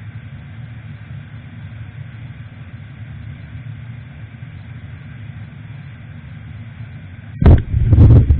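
A motorcycle on the move, heard through an action camera's microphone: a steady low rumble of engine and road noise. Near the end, loud low thumps of buffeting break in.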